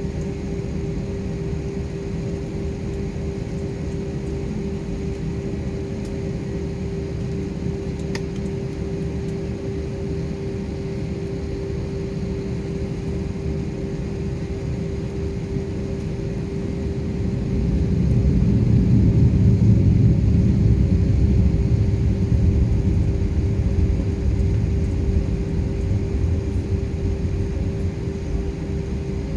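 Airliner engine noise heard inside the passenger cabin: a steady low drone with a constant hum. The drone swells louder about two-thirds of the way through, then eases back.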